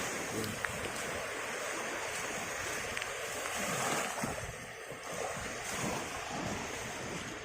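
Sea surf washing on the shore, a steady rushing noise, with some wind buffeting the microphone.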